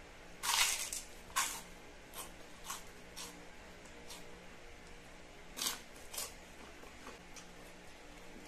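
Crunching as a crispy fried battered snack is bitten and chewed close to the microphone: a loud crunch about half a second in and another a second later, then softer crunches spaced over the next few seconds, with a pair of louder ones near the end.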